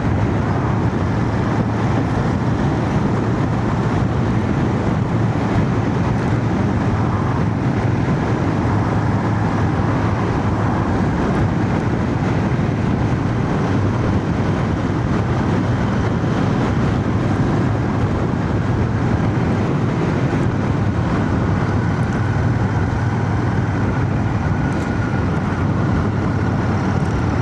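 Royal Enfield Shotgun 650's parallel-twin engine running steadily under way, with wind and road noise, heard through a microphone inside a full-face helmet.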